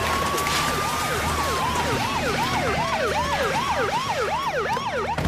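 Emergency vehicle siren on the fast yelp setting: a rising-and-falling sweep repeating about three times a second, with a slower gliding tone over it in the first few seconds and a low vehicle rumble underneath.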